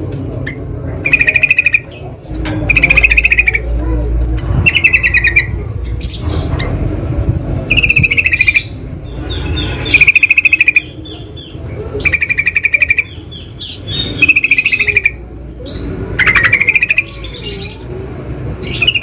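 Yellow-vented bulbuls (trucukan) singing in the wild. Short, bubbly, trilled phrases recur about every two seconds, over a low background rumble.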